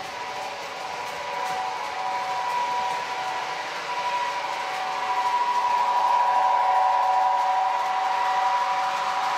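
MTH model trains running on the layout: a steady electric whine with a rolling noise of wheels on track, growing louder about halfway through.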